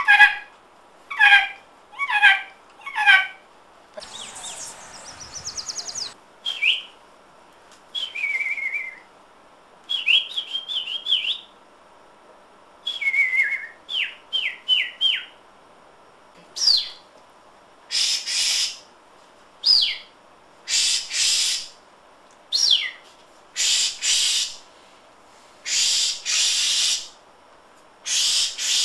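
A person whistling imitations of bird calls: short falling whistled notes and slurred phrases. In the second half the pattern becomes a quick falling whistle followed each time by a breathy, hissing rasp, repeated every second or two.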